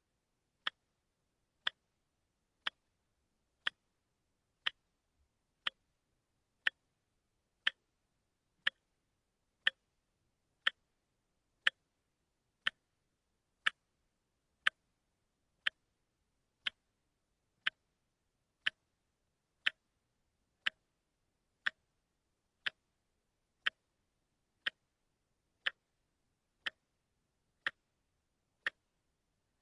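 A watch ticking steadily once a second, each tick a single crisp click with nothing else between.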